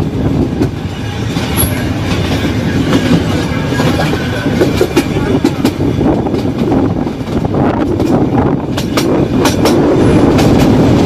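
Nilgiri Mountain Railway metre-gauge train running along the track: a steady rumble of the carriages with frequent sharp clicks and clatter from the wheels and rail joints.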